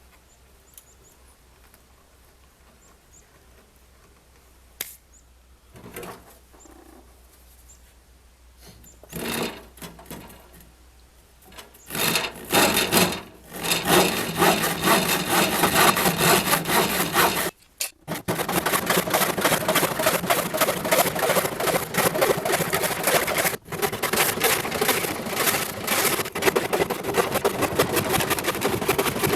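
Scrap wood being worked with a tool: a few knocks for about the first twelve seconds, then a loud, continuous rasping cut that pauses briefly twice.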